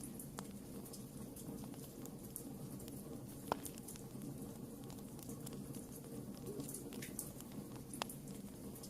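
Wood fire burning with soft, scattered crackling and two sharper pops, one about three and a half seconds in and one near the end.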